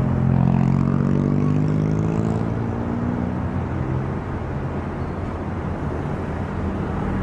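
Diesel locomotive engine running, its pitch sliding slowly down and fading out about four seconds in, over a steady rumble of rail-yard noise.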